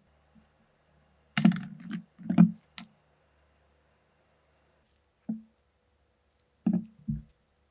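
Parts of a Mauser K98 rifle being handled on a work surface: a quick cluster of sharp clicks and knocks in the first few seconds, then a single knock, then two more near the end.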